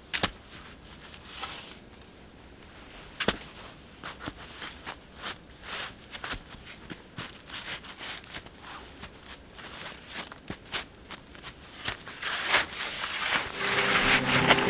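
Footsteps crunching in snow, irregular, two or three a second, with two sharp cracks early on. Music fades in near the end.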